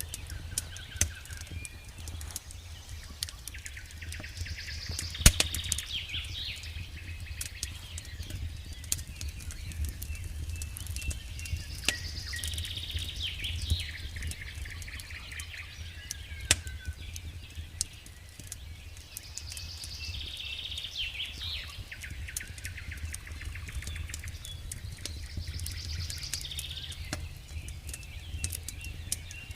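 Campfire crackling with frequent sharp pops, the loudest about five seconds in, over a low steady rumble. A songbird sings short phrases that come back every seven or eight seconds.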